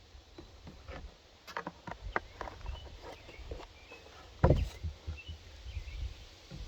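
Irregular clicks and knocks from handling a chainsaw and an oil bottle while filling the bar-and-chain oil tank, with one louder thump about two-thirds of the way through.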